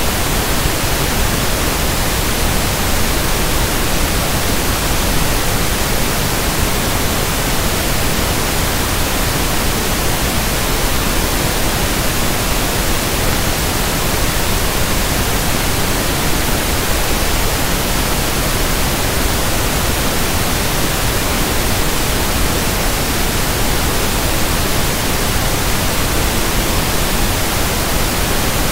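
Synthetic pink noise (1/f noise): a steady, even hiss across the whole range of pitch, with no change in level.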